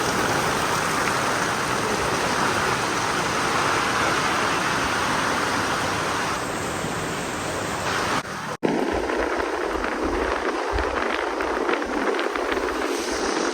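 Steady rushing noise that cuts out abruptly about eight and a half seconds in, then gives way to a gusty low rumble.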